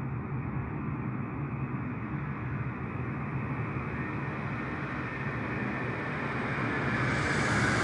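Jet aircraft engines, a steady rumble with a faint high whine that grows louder near the end.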